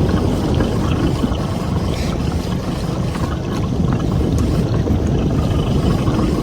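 Steady wind rumbling on the microphone, with water noise around a small boat at sea.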